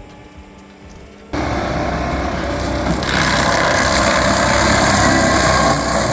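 Excavator-mounted Indeco IMH 15 forestry mulching head and the excavator's diesel running, starting abruptly about a second in as a loud, dense machine noise. It grows louder and brighter around three seconds in as the mulcher works into the brush.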